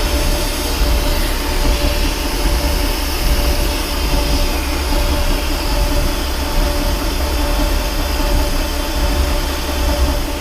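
Large metal lathe running under load, its LNMX carbide insert taking a heavy roughing cut, half an inch off the diameter of a steel shaft: a steady, loud machine hum with a constant tone.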